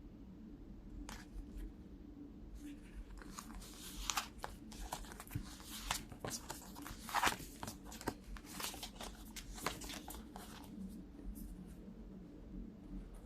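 Cards being handled: a run of quick, irregular rustles and clicks for several seconds that thins out near the end, over a faint steady hum.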